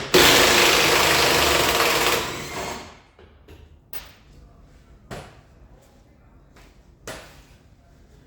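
A power wrench runs for about two seconds, undoing a mounting bolt, and then dies away. A few short metallic clinks of tools and parts follow.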